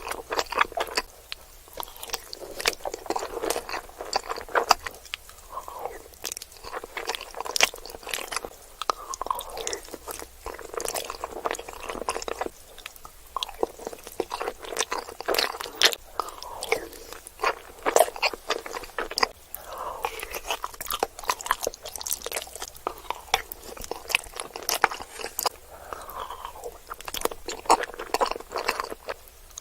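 Close-miked eating: someone biting and chewing crunchy food, with a continual run of sharp crunches and wet mouth sounds.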